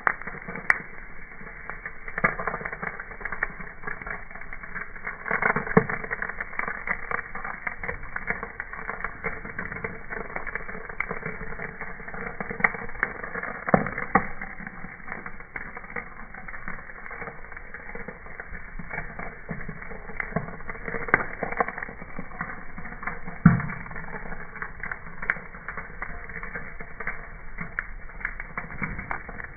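Wood campfire crackling, with irregular sharp cracks and pops over a steady hiss.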